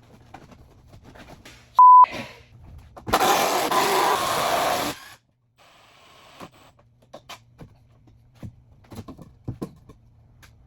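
A short, very loud, steady electronic beep. About a second later comes roughly two seconds of loud rushing noise that cuts off sharply, and after that scattered light knocks and taps of workshop handling.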